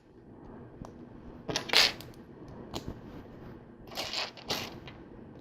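Small plastic LEGO pieces clicking and rattling as they are handled and fitted together, with a louder clatter about a second and a half in and two more near four seconds, between small ticks.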